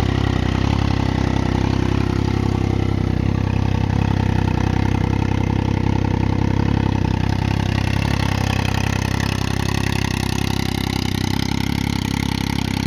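Triumph Daytona 675's inline three-cylinder engine running steadily at idle through a custom exhaust, its note easing slightly lower partway through.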